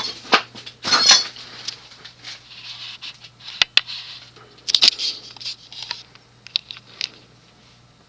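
Hunter Original ceiling fan's motor humming steadily at medium speed, just after being switched up from low. Over the hum come light clicking and rattling that die away about seven seconds in.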